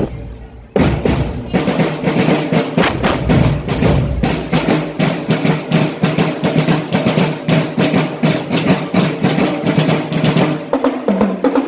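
Marching drum band playing a fast rhythm on snare, tenor and bass drums, with rapid rolls. The drumming breaks off briefly at the start and comes back in hard within the first second; a few held pitched notes join near the end.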